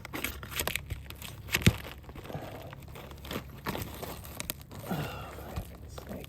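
Shingles being pried and peeled up from a roof: irregular crackling and tearing with scattered sharp cracks, the loudest about a second and a half in, as a shingle that is glued to the layer beneath tears loose.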